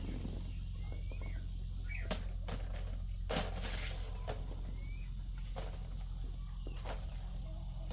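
Outdoor rural sound: insects giving a steady high-pitched drone, with a few short rising bird chirps and scattered sharp knocks and rustles, the loudest knock about halfway through.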